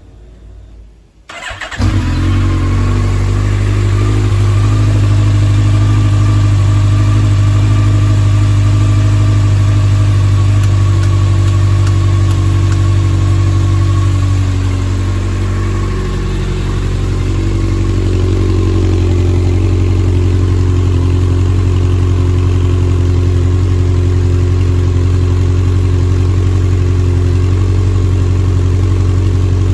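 Honda CB1100's air-cooled inline-four motorcycle engine starting about two seconds in, then idling steadily. The idle note shifts slightly and dips a little about halfway, then settles.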